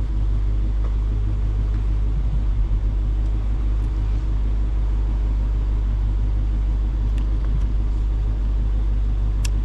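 A car's engine and road noise make a steady low drone at an even engine speed as the car cruises. There is one sharp click near the end.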